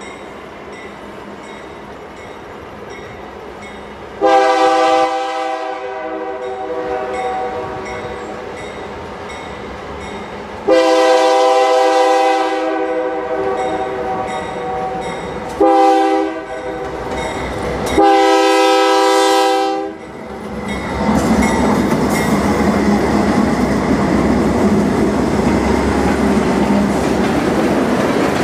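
Diesel locomotive horn sounds the standard grade-crossing signal, long, long, short, long, as the train approaches. The locomotives then pass close by and a string of loaded ore hopper cars rolls past, wheels clicking over the rail joints.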